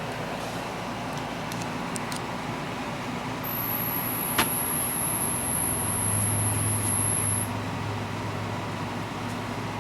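Mid-1980s Zenith VCR's mechanism cycling over a steady hiss. A high-pitched whine comes in a few seconds in, a sharp click about halfway through, then a low motor hum near the end, as the faulty transport is run through its cycle.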